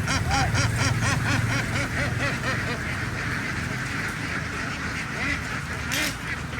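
A flock of domestic ducks quacking: a quick run of repeated quacks over the first second or two, then many calls overlapping into a steady chorus.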